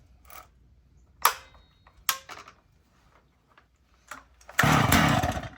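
Two-stroke Stihl MS250 chainsaw being cold-started on full choke: a few sharp clicks and knocks as the saw is handled, then, near the end, about a second of a loud pull on the recoil starter cord.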